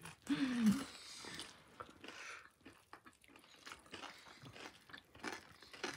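Close-up crunchy chewing of a dry snack mix of crushed instant noodles and puffed rice, many small crackling bites. A short falling 'mmm' hum comes from the eater about half a second in.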